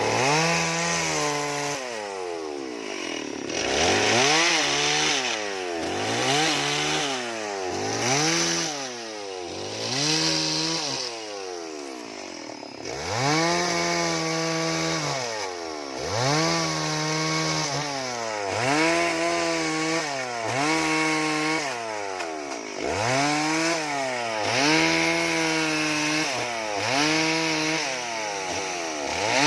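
Chainsaw revved up and down over and over as it carves into wood, the engine pitch rising and falling about every two seconds, with a short lull near the middle.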